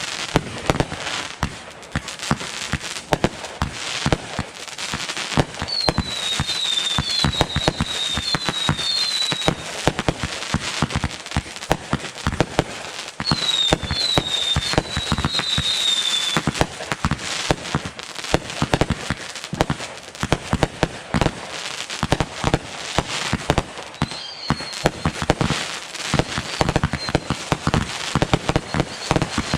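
Fireworks going off in a dense, unbroken crackle of many quick pops and bangs, with two runs of short falling whistles partway through.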